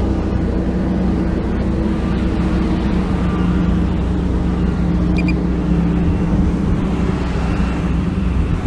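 Heavy diesel earthmoving machinery, a dump truck or bulldozer, with its engine running steadily with a deep rumble.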